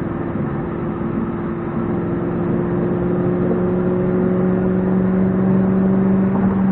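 Audi RS5's 4.2-litre V8, heard from inside the cabin through a JH Motorsports 2.75-inch valved cat-back exhaust with the valves open, pulling in a steady acceleration at highway speed. The engine note climbs slowly in pitch and grows louder, then eases off at the very end.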